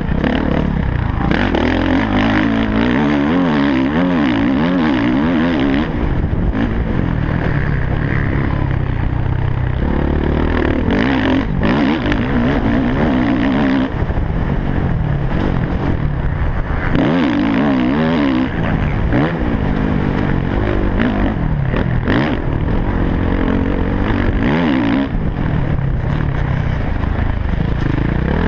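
MX1-class motocross bike engine ridden hard round a dirt track, loud and close from a helmet-mounted camera, its revs climbing and dropping again and again through gear changes and corners.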